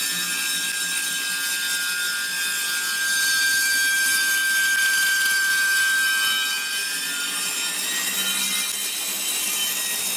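Table saw running with a used 60-tooth carbide blade, cutting a slab off a board: a steady, high-pitched whine that gets a little louder in the middle of the cut. The blade is not dull but not sharp.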